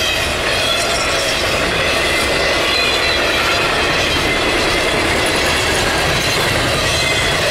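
CSX double-stack intermodal train rolling past at speed: a steady, loud rush of steel wheels on rail, with a faint high ringing above it.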